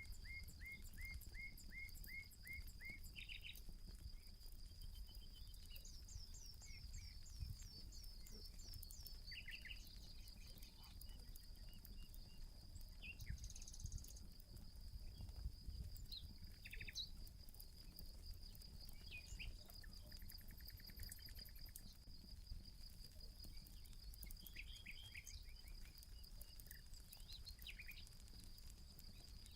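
Outdoor nature ambience: a steady high insect trill throughout, with birds calling in runs of short repeated chirps, and faint crackling from a campfire.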